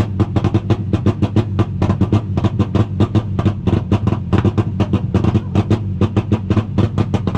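Car engine held at wide-open throttle on the rev limiter, stuttering with rapid, irregular exhaust crackles and pops at about eight to ten a second, as it does when it is being made to shoot flames.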